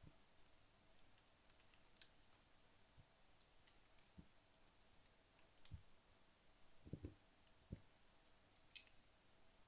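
Burned-down wood fire in a fireplace: faint, sparse crackles and ticks from the dying logs and embers, with a few soft low pops, about a dozen in all.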